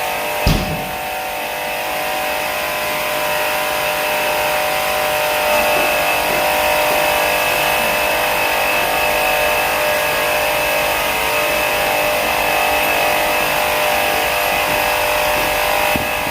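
A motor-driven machine running steadily with a constant high whine over a broad hiss, with one sharp thump about half a second in.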